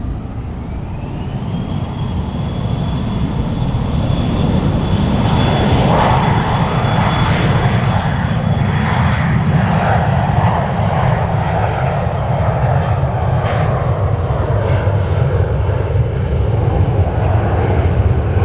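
Jet airliner engines running at high power: a whine rises over the first second or two and then holds steady over a heavy low rumble.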